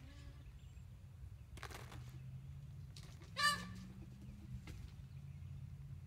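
A bird gives one short, loud call about three and a half seconds in, over a steady low hum.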